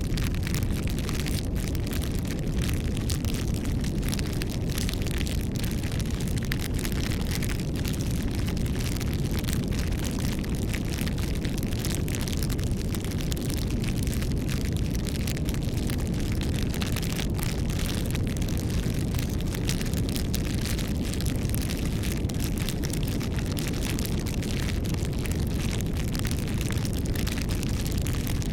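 Wood bonfire burning: a steady low rumble of flames with many small, sharp crackles and pops from the wood.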